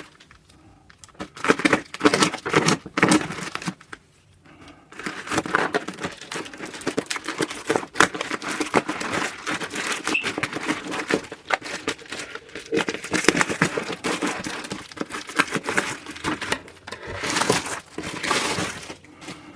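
Product packaging being torn open and handled: irregular crinkling, rustling and tearing, with short pauses near the start and about four seconds in.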